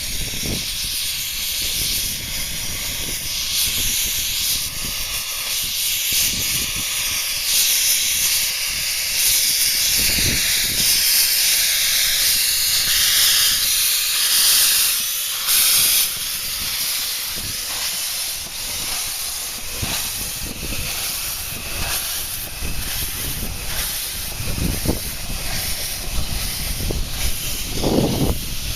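Steam hissing from a 15-inch gauge steam locomotive, loudest about halfway through and then dropping off suddenly, with scattered low knocks.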